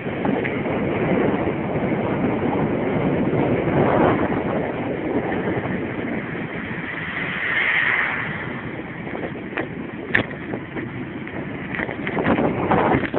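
Wind rushing over a phone's microphone during a fast bicycle descent, swelling and easing, with a few sharp clicks or knocks in the last few seconds.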